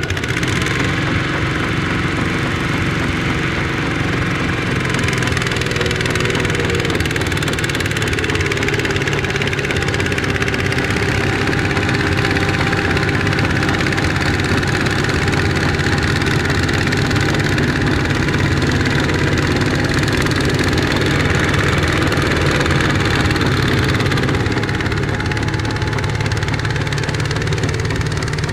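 Kubota ZT155 single-cylinder diesel tractor engine running steadily at a constant speed.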